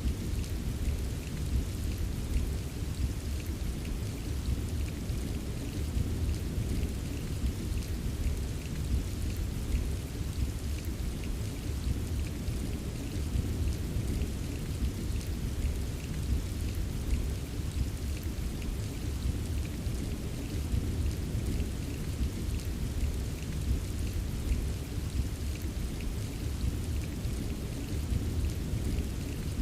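Steady rain: a dense patter of drops over a constant low rumble, unchanging throughout.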